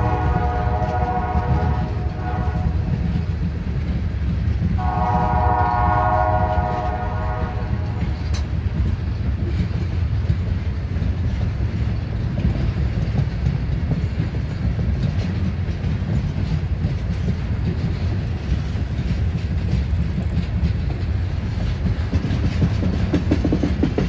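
Freight train passing with a steady low rumble of wheels and cars on the rails. The locomotive's air horn sounds a chord twice: once running over from before and stopping about two seconds in, then again for about three seconds from around five seconds in.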